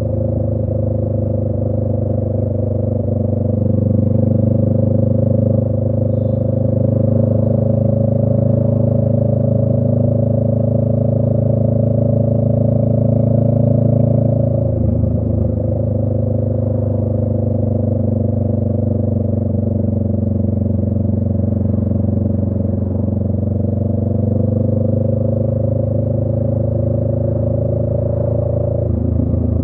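Exhaust note of a 2018 Honda Rebel 500's parallel-twin engine through a Radiant Cycles Shorty GP slip-on, running steadily while riding. The note breaks and drops about halfway through, then climbs slowly and drops again near the end.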